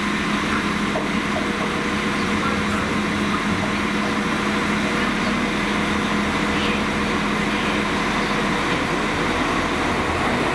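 Diesel multiple unit drawing slowly into the platform, its engines and running gear giving a steady hum with a low drone.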